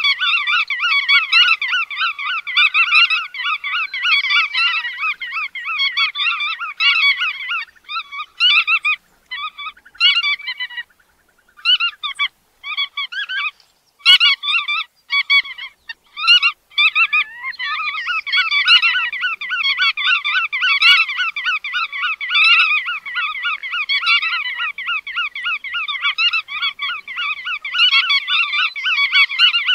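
Bar-tailed godwits calling: a rapid, continuous stream of short, repeated calls. From about a quarter of the way in to just past the middle, the calling breaks into scattered short bouts with brief silences, then becomes dense again.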